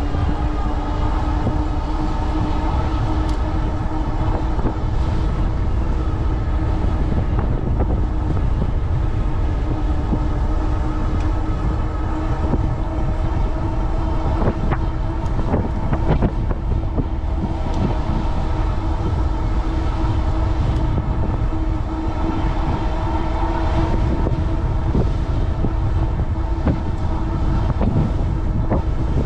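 Strong headwind buffeting the microphone over fat-tire rolling rumble, with a steady whine and a few overtones from the e-bike's 750 W Bafang rear hub motor working on pedal assist 4 against the wind.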